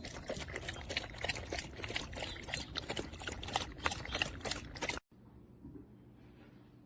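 A dog lapping water from a stainless steel bowl: quick, irregular wet splashes that stop abruptly about five seconds in.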